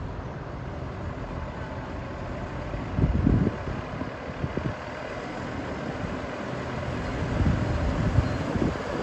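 Road-run vehicles, vintage tractors and lorries, driving past with their engines running as a steady rumble. It surges louder about three seconds in and again near the end as vehicles go by.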